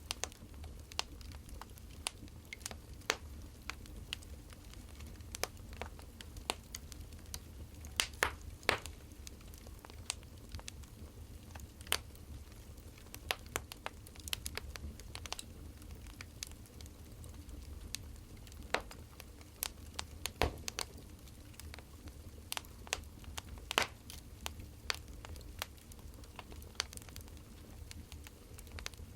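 Burning firewood crackling, with irregular sharp pops of varying loudness over a low steady rumble.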